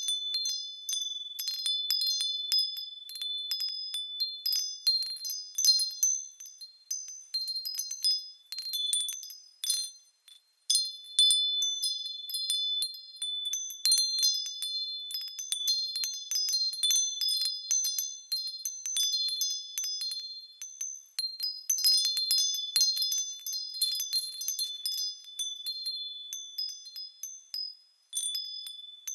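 Small metal bells swinging and striking in a continuous shimmer of high, overlapping ringing tones, like a wind chime. It cuts out briefly about ten seconds in and again near the end.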